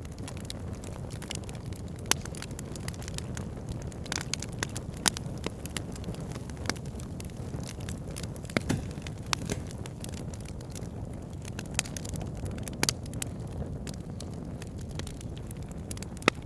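Wood fire in a fireplace crackling, with irregular sharp pops over a steady low rumble of the flames. A few pops stand out louder than the rest.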